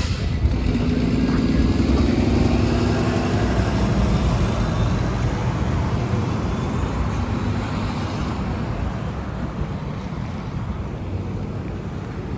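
A bus driving past, its engine hum building to loudest about two seconds in and then slowly fading away. A short sharp click at the very start.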